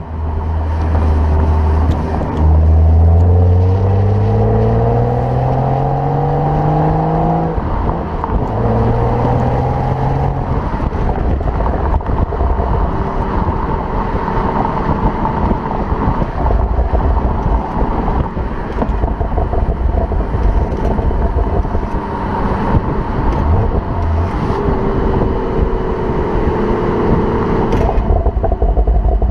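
BMW 335i's turbocharged inline-six with an M Performance exhaust accelerating, the engine pitch climbing and then dropping at gear changes about two and eight seconds in, before settling into a steady rumble with road noise. A short rising engine tone comes again near the end.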